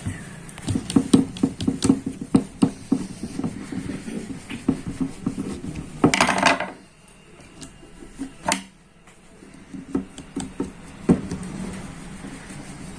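Small metal clicks and rattles of a steel screw and screwdriver against the microwave fan motor's frame as the motor is put back together: a quick run of clicks for the first few seconds, a short scraping burst about six seconds in, then a few single clicks.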